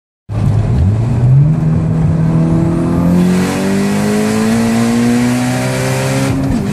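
Built, turbocharged 2.1-litre four-cylinder of a Mitsubishi Lancer Evolution under hard acceleration, heard from inside the cabin. The engine pitch climbs steadily through the gear, then drops at an upshift near the end.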